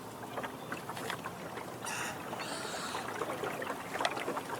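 Water lapping and splashing around a small jon boat, with scattered short clicks and ticks and a brief brighter splash about two seconds in.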